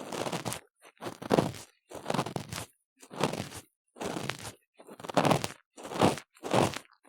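An ear-cleaning tool scraping and digging firmly inside a silicone ear model, close to the microphone. It makes a run of short crunchy scraping strokes, a little more than one a second, with brief silences between them.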